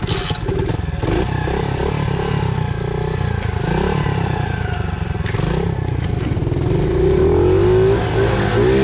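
Small 70cc motorcycle engine running under way, its pitch shifting up and down and then rising and growing louder about seven seconds in.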